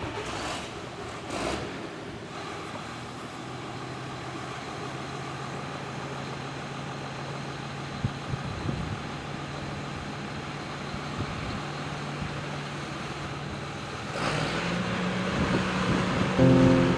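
John Deere 7430 tractor engine running steadily while it pulls an Amazone fertiliser spreader, getting louder about fourteen seconds in. Piano music comes in near the end.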